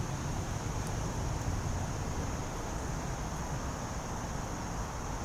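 Steady outdoor background: a low, even rumble under a constant high-pitched drone of insects.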